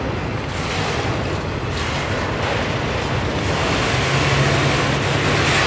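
Autorack freight cars rolling past on the track, steady noise of steel wheels on rail with a low hum that grows a little stronger near the end.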